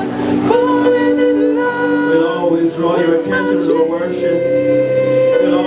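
Worship music: a keyboard playing sustained chords while voices sing along in a slow, held melody.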